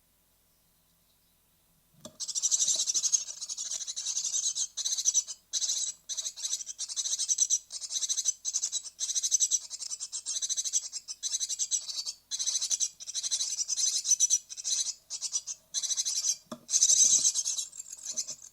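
Great tit nestlings at fledging age calling in a dense, high-pitched chorus of rapid notes, starting about two seconds in and going on with only brief breaks.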